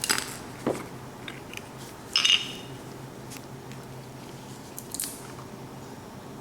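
Small plastic housing of a ceiling fan light limiter being split open: a handful of sharp clicks and cracking snaps, the loudest about two seconds in.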